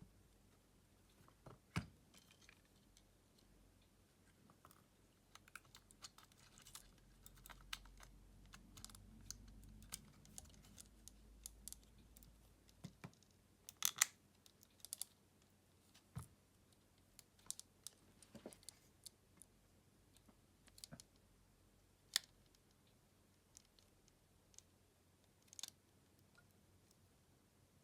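Scattered small clicks and taps of hand tools and loose parts against a smartphone being disassembled, a sharper cluster about halfway through, over a faint low rumble for a few seconds early in the middle.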